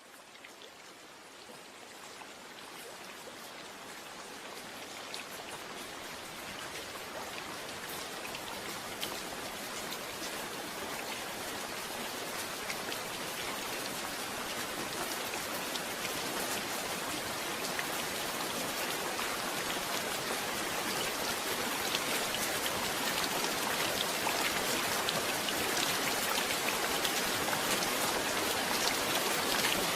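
Steady rain falling, with many individual drops ticking. It fades up gradually from near silence, most of the rise in the first several seconds.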